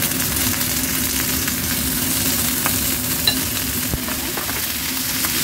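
Stuffed chicken wings, garlic and ginger frying in a little oil in a nonstick pan: a steady sizzle, with a few faint clicks midway.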